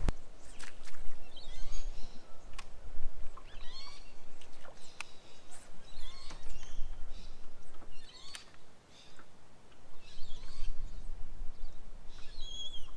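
Birds calling: short chirping notes, many of them sliding in pitch, about one a second throughout, with scattered light clicks. A low rumble runs underneath.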